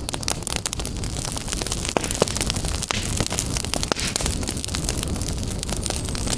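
Wood fire burning in a fireplace: a steady low rumble of flames with frequent sharp crackles and pops from the burning logs, a louder pop a little past two seconds in.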